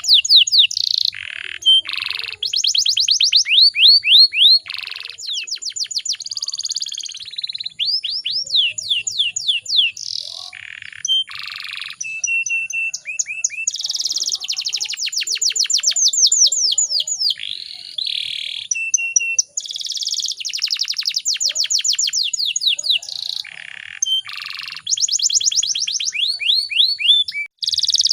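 Domestic canary singing a continuous song of rapid trills: phrases of fast repeated notes that switch to a new note type every second or two, with a few short buzzy notes between them.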